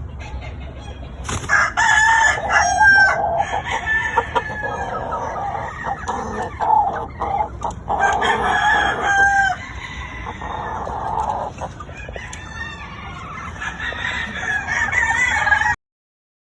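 Several gamecock roosters crowing over one another, with clucking among the crows. The sound cuts off suddenly near the end.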